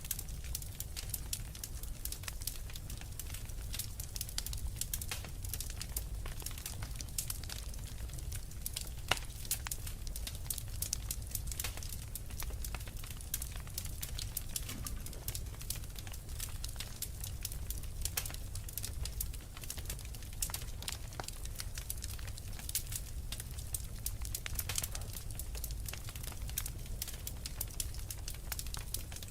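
Wood fire crackling in a fireplace: frequent small snaps and pops over a low, steady rumble of burning, with one louder pop about nine seconds in.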